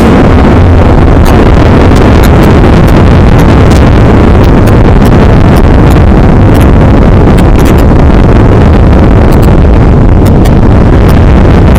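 Heavy wind buffeting the microphone of a camera carried on a fast-moving ride train, as a loud, steady roar with irregular sharp clicks and rattles.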